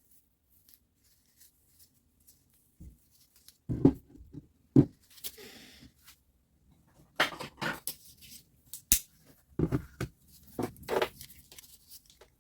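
Irregular knocks, clicks and short scrapes of small parts of a Milwaukee reciprocating saw being handled and fitted on a bench. The loudest are two knocks about four and five seconds in, then a run of clicks later, with one sharp click near nine seconds.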